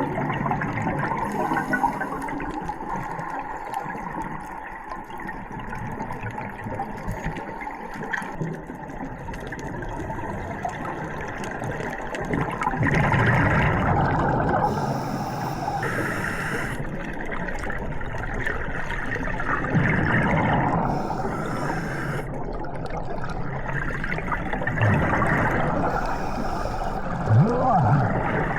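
Water rushing and gurgling, swelling in bursts every several seconds.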